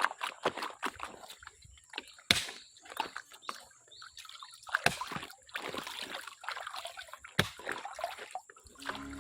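Water sloshing and splashing in quick, irregular strokes as a gold pan is worked by hand in shallow water.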